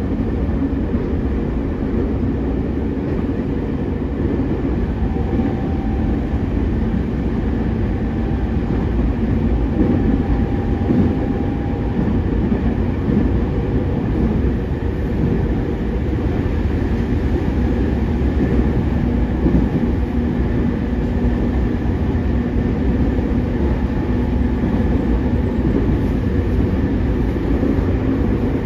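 Running noise of a JR East E231-3000 series electric commuter train at speed, heard from inside a passenger car: a steady rumble of wheels on rails.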